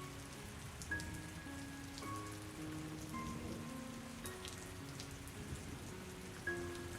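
Steady rain falling, with slow, soft melodic music of held notes that change every second or so underneath.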